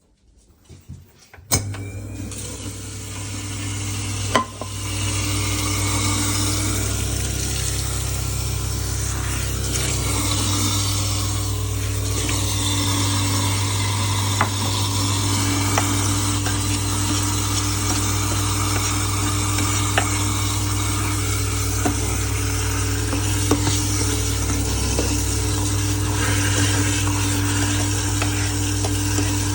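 Kitchen sink garbage disposal switched on about a second and a half in, then running steadily with a motor hum and a grinding hiss as it chews up greens. Scattered sharp clicks and ticks come through the run.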